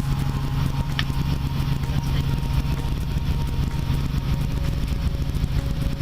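Helicopter in flight heard from inside the cabin: a steady, loud engine and rotor drone with a strong low hum.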